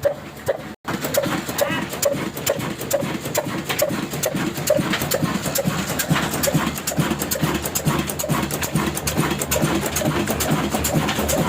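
Old Ruston Hornsby diesel engine running steadily, driving a flour mill, with a regular beat about twice a second and a clatter of fine clicks over it. The sound drops out briefly about a second in.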